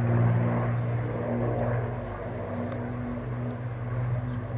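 Avro Lancaster's four Merlin piston engines droning steadily in flight: a low, even engine note that eases a little in the middle and builds again near the end.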